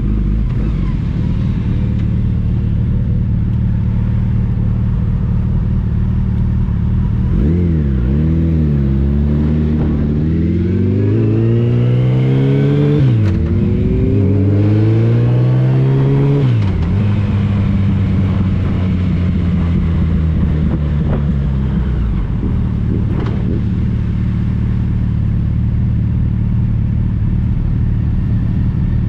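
Motorcycle engine cruising at a steady note with road noise, then about seven seconds in it accelerates hard, climbing in pitch through two upshifts, each climb ending in a sharp drop, before settling back to a steady cruise.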